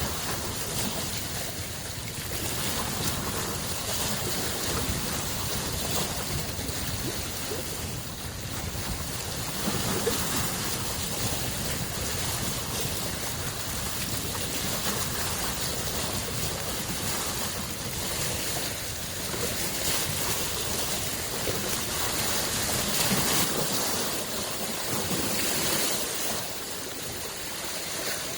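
Small waves on Lake Biwa, a freshwater lake, washing in as a steady wash that swells and eases every few seconds, loudest about ten seconds in and again near twenty-three seconds.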